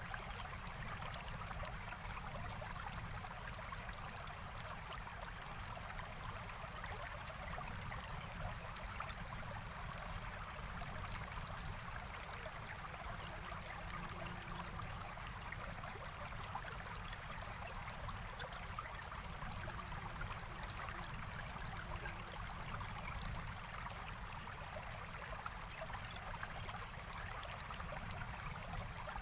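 Forest stream flowing, a steady, unbroken babble and trickle of water.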